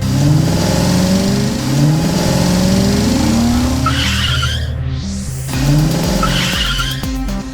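Cartoon vehicle sound effects: an engine revving in repeated rising sweeps, with a short burst of tyre-skid hiss about four seconds in and again a little after six seconds, over background music.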